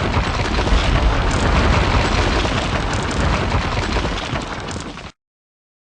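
Explosion-like rumbling crash sound effect of an animated video intro, dense and heavy in the low end, easing slightly before cutting off abruptly about five seconds in.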